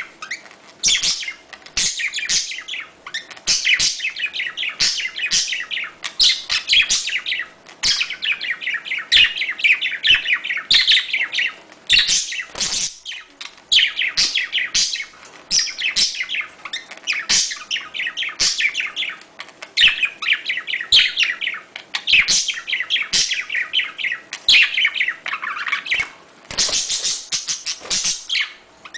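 Several budgerigars chattering and warbling nonstop: fast, dense strings of chirps, squeaks and clicks with short breaks. This is the budgie chatter played to pet birds to get them to breed.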